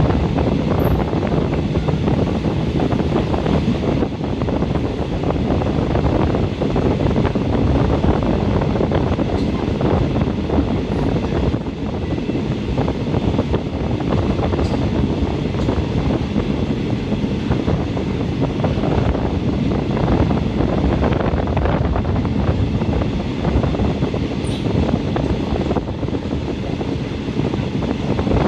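State Railway of Thailand passenger train running steadily, its ride noise heard from inside the carriage at the window, with wind on the microphone.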